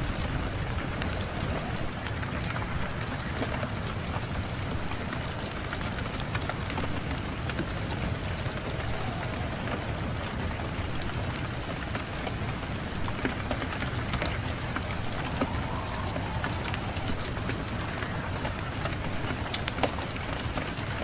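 Fireplace fire crackling, with many scattered sharp pops and snaps over a steady low rumble of wind.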